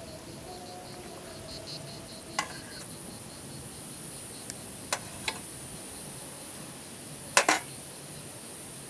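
Cookware and utensils clinking a few times, the loudest a quick double clink near the end, over a steady hiss.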